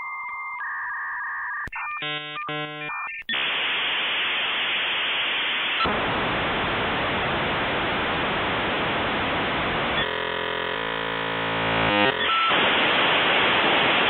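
Electronic sound effect: a short run of rapid beeping tones, then a loud, harsh static hiss with a warbling, buzzing stretch near the end, all with a thin, telephone-like sound.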